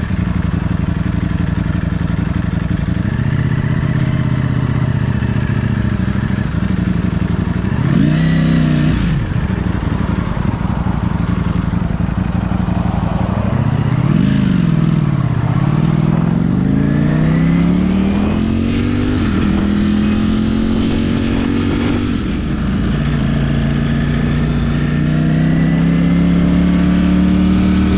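Ducati motorcycle engine under way, its pitch rising and falling with the throttle: a quick rev and drop about 8 seconds in, a dip then a long climb in pitch as it accelerates a few seconds later, and a slow rise near the end. Steady wind rush runs underneath.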